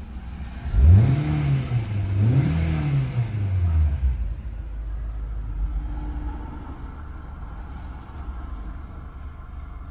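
2020 Nissan Altima engine revved twice in quick blips about a second in, then settling back to a steady idle. It runs smoothly, with its misfire gone.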